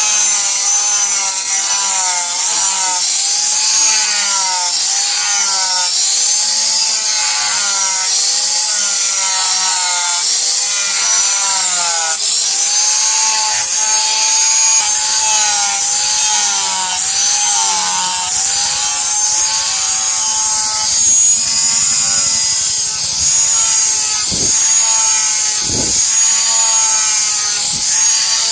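Power grinding tool running against a steel knife blade, its motor whine dipping and recovering about once a second as the blade is pressed and drawn across it, with a steady high grinding hiss. A few short knocks near the end.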